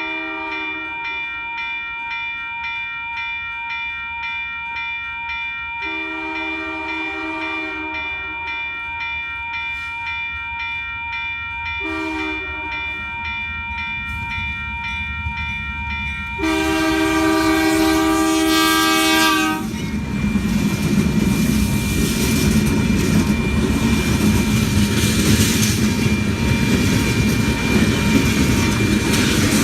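Diesel locomotive's multi-chime air horn blowing the grade-crossing signal: long, long, short, long, with the engine rumble growing under the last blasts. About two-thirds of the way in the train reaches the microphone, and the locomotive and cars go past loudly with engine and wheel-on-rail noise.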